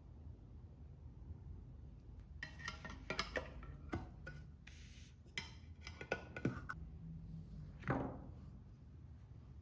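Faint clinks and knocks of hard objects being handled and set down, over a low steady hum, with a brief swish about eight seconds in.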